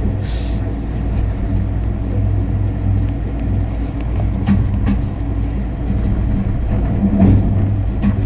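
Skyrail suspended people-mover car running, with a steady low rumble and hum and a few faint clicks.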